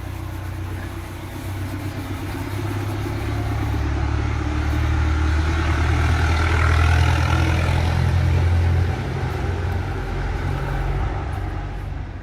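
A motor vehicle's engine running close by: a low steady drone that grows louder over several seconds, then drops back about three-quarters of the way through.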